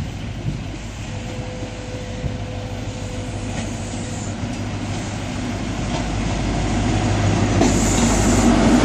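High Speed Train led by Class 43 diesel power car 43197 approaching a station platform. Its engine hum and wheel noise grow steadily louder over the second half.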